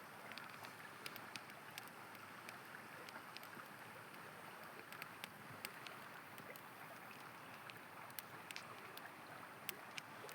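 A river's steady rush, with irregular sharp crackles and pops from a campfire, a few a second.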